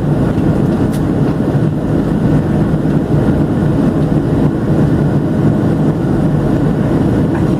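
Steady in-flight cabin noise of a Boeing 737-700: a constant low rumble of engine and airflow noise, heard from inside the passenger cabin.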